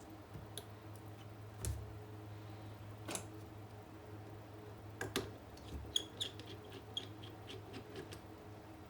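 Scattered small clicks and taps of hand tools and parts on a MacBook Pro being taken apart, with a quick run of light clicks in the second half, over a steady low hum.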